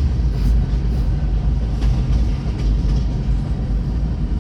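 Norfolk Southern freight train cars rolling past close by: a steady low rumble of steel wheels on the rails, with a few sharp clicks.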